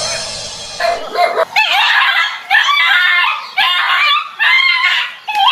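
A dog yelping and howling in repeated high-pitched cries that bend up and down, after a short buzzy sound in the first second.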